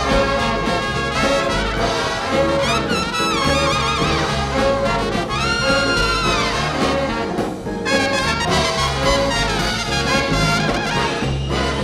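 Jazz band with a brass section playing: trumpet lines with bends and slides over trombones and a bass line.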